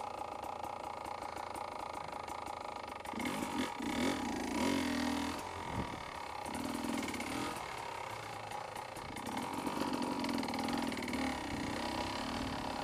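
Beta 300 RR two-stroke enduro motorcycle engine idling, then pulling away about three seconds in. It runs at low revs, with the throttle opening and closing, for the rest of the time.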